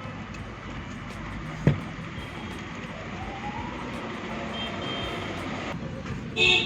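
Steady rumble of road traffic, with a sharp knock about a second and a half in. Near the end comes a short, loud vehicle-horn honk.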